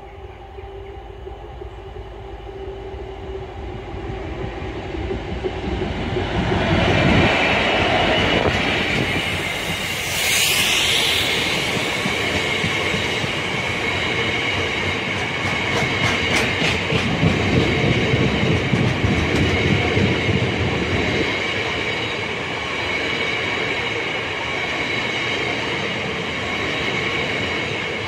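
Class 66 diesel freight locomotive approaching and passing close by, its EMD two-stroke V12 growing steadily louder over the first seven seconds, then a long train of hopper wagons rolling past with a rhythmic clickety-clack of wheels on rail and a steady high whine from the wheels.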